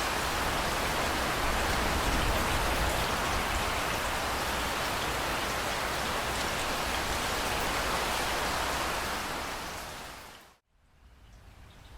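Steady heavy rainfall that fades out about ten seconds in, dropping briefly to near silence. Lighter rain with separate drops then fades back in near the end.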